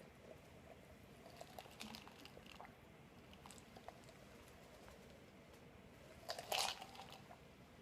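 Faint mouth sounds of chewing waffle, with scattered small crunches and clicks. About six and a half seconds in comes one brief, louder rush of noise.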